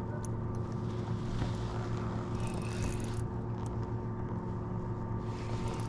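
Steady, even drone of a motorboat engine running on the lake, with a few faint clicks over it.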